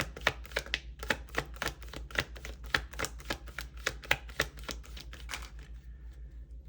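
A deck of tarot cards being shuffled by hand: rapid repeated card flicks and slaps, about four or five a second, thinning out near the end.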